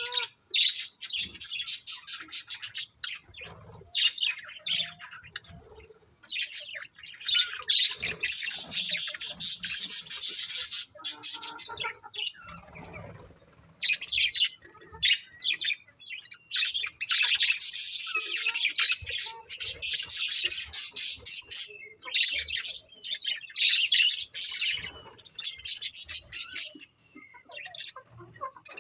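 Budgerigars chattering and chirping in a flock, rapid high warbling calls in long bouts broken by short pauses.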